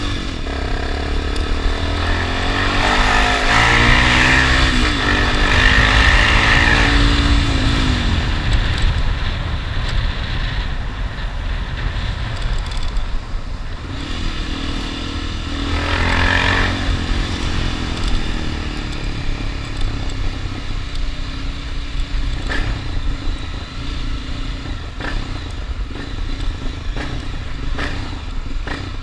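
Honda XRE 300 single-cylinder four-stroke engine under way, its revs climbing and falling as it accelerates a few seconds in and again around halfway, over steady wind rumble on the microphone.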